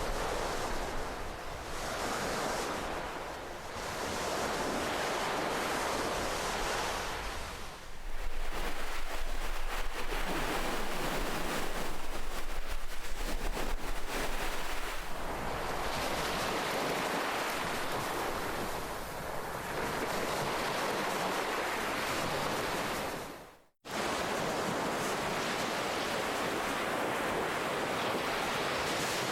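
Ocean waves surging and washing in slow swells, a steady rush of surf that rises and falls every few seconds. A little past three-quarters of the way through, the sound dips to silence for an instant and cuts back in abruptly.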